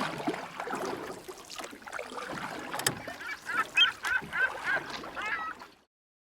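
A bird gives a quick run of about eight short calls, roughly three a second, over a background of water and boat noise; the sound cuts off suddenly near the end.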